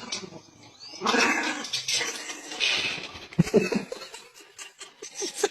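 Pet dog making noises at a door, with a few short knocks about three and a half seconds in.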